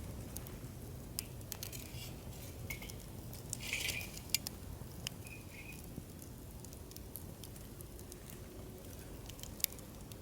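Wood fire burning in a campfire stand, crackling with scattered sharp pops over a low steady rumble, with a brief louder hissing flare about four seconds in.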